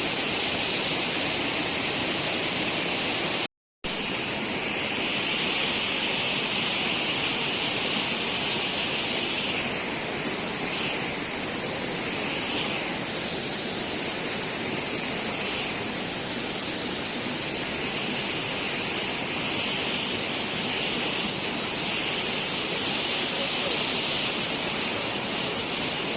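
Steady, high-pitched buzzing chorus of tropical forest insects, swelling slightly a few times midway. It cuts out for a split second about three and a half seconds in.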